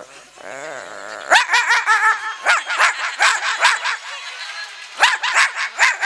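A man's voice imitating a dog fight. It opens with a low, wavering growl, and after about a second breaks into a fast run of sharp yelping barks.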